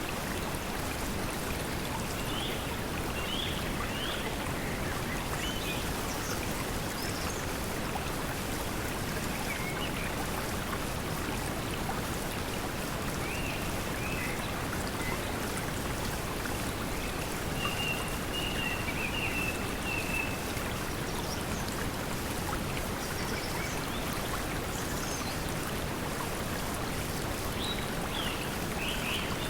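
Steady pink noise mixed with flowing stream water, with brief bird chirps now and then and a longer trill about two-thirds of the way in.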